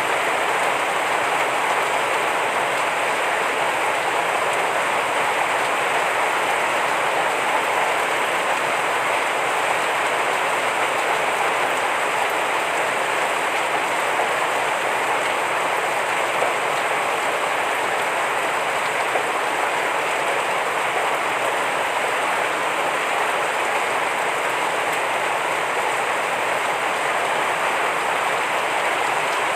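Heavy rain falling steadily: an even, unbroken hiss of rain on surfaces.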